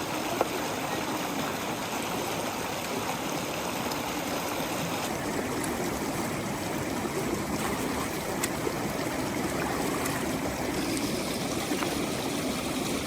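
Steady heavy rain on a cabin roof, an even rushing hiss with water running and dripping, and a few sharp clicks.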